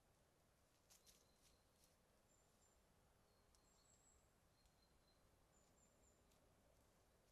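Near silence: faint background hiss with a few short, high, thin chirps and a couple of faint clicks about a second in.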